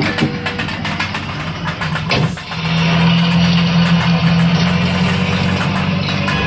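Engine running with a steady low hum. It grows louder and steadier about two and a half seconds in, just after a short knock.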